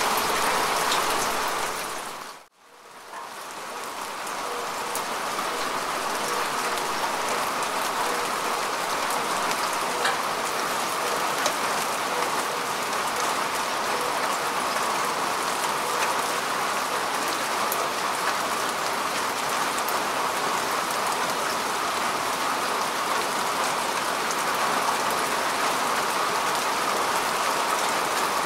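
Steady rain falling on grass and earth: a dense, even hiss of drops with scattered single drop ticks. About two seconds in it fades away almost to silence and swells straight back, the join of a looped recording.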